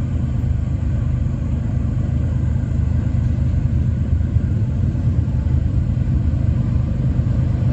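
Steady low rumble of a slow-moving freight train.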